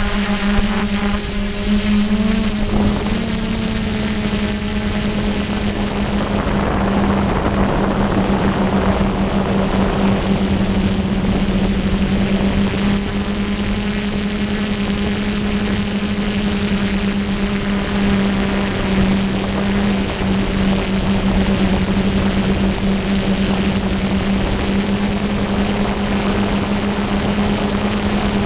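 DJI F550 hexacopter's six brushless motors and propellers running with a steady drone, shifting in pitch for a moment about two seconds in and then holding level, with strong wind rushing over the microphone.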